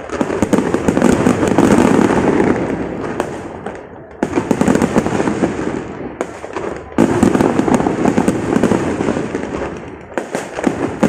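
Fireworks display: a dense barrage of rapid bangs and crackling. It comes in waves, with new volleys starting abruptly about four and seven seconds in and again near the end, each thinning out before the next.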